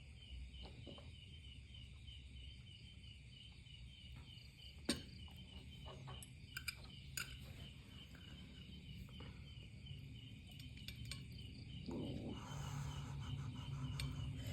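Background cricket chirping steadily at about four chirps a second, with a few sharp clicks around the middle and a louder, noisy stretch near the end.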